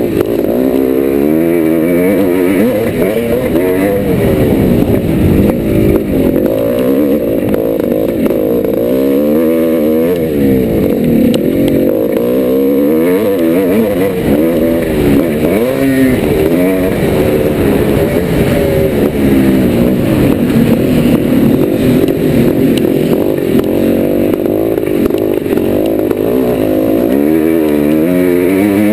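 1990 Yamaha YZ490's two-stroke single-cylinder engine being ridden hard, its pitch sweeping up and falling off again and again as the throttle is opened and shut.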